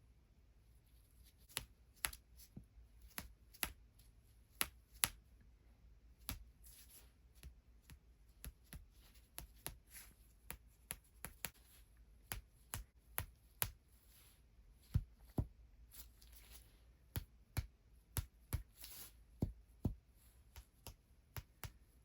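Hands massaging a person's feet close to the microphone: irregular sharp, sticky clicks of hands on skin, a few a second, with faint rubbing between them.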